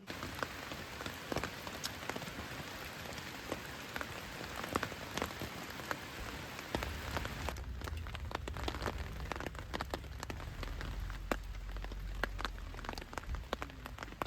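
Rain falling on a surface: a steady hiss dotted with many small drop ticks, with a low rumble joining about halfway through.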